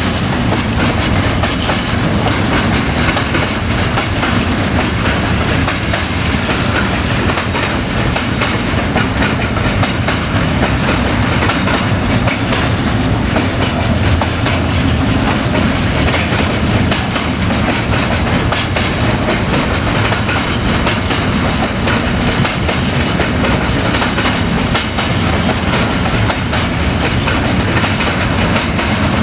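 Container flat wagons of an intermodal freight train rolling past close by: a steady rumble of wheels on rail with continuous clickety-clack as the wheels cross the rail joints.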